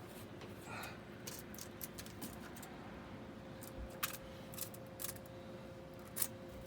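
Scattered sharp clicks and light taps, a few at a time and irregular, over a faint steady hum.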